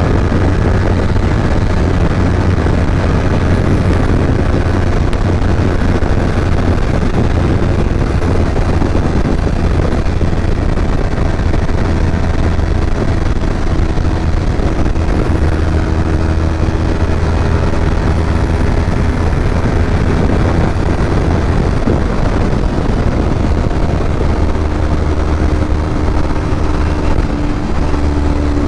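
Kawasaki Ninja 250 motorcycle engine running under way, heard from on board with wind noise. The sound is loud and fairly steady, with its pitch stepping a few times in the second half.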